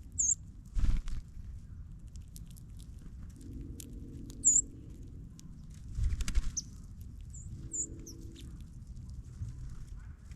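Small wild birds feeding on seed in snow: short, very high chip calls a handful of times over light, scattered ticking. Two brief flurries of thumps come about a second in and around six seconds in, and these are the loudest sounds.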